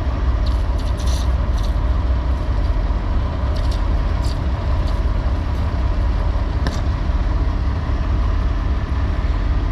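Semi tractor's diesel engine idling with a steady low rumble, with a few short hisses over it.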